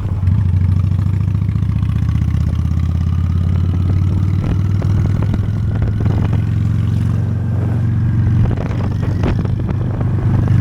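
Honda Steed V-twin motorcycle engine running steadily while riding, with a faint whine slowly rising in pitch over the first few seconds.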